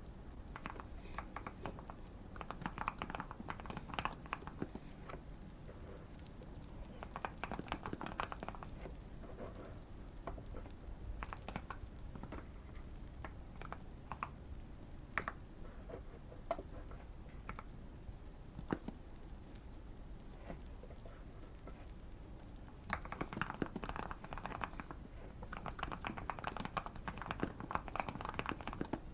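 Typing on a modded Keychron Q1 mechanical keyboard with Fierce Girl switches and tape and PE-foam mods. Rapid keystrokes come in bursts near the start, around eight seconds in and through the last six seconds, with pauses between. Faint fireplace crackling plays underneath.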